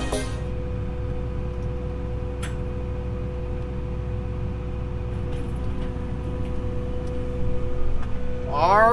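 Farm tractor engine running steadily while pulling a disk through the field, a continuous low rumble with a steady hum.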